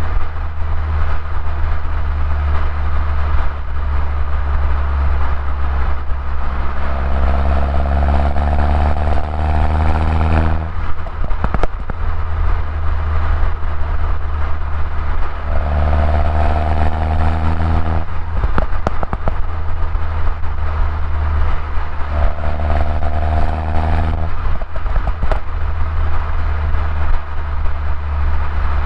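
2011 Mini Cooper S R56's turbocharged 1.6-litre four-cylinder on its stock exhaust, driving with a steady low drone. Three times the engine note rises in pitch as the car accelerates, and each pull ends in a short burst of crackles as the revs drop.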